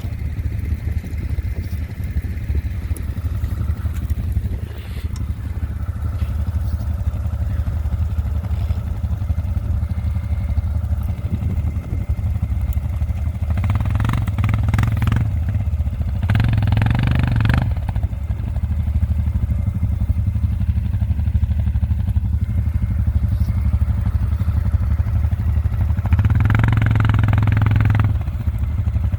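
ATV engine running, with short bursts of revving twice about halfway through and once more near the end, as the machine is worked to get it out of a snow-filled ditch.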